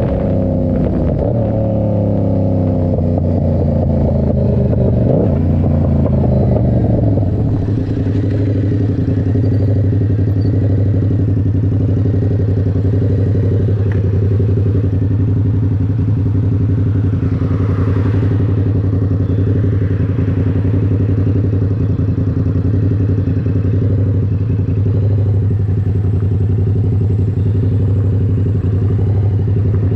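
Yamaha R7's parallel-twin engine through an SC Project exhaust: the revs fall over the first several seconds, then the engine holds a steady note.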